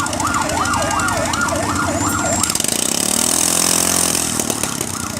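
A siren yelping, its pitch rising and falling about three times a second, over a steady low engine hum. It breaks off partway through, while a rising tone and a high hiss take over, and starts yelping again near the end.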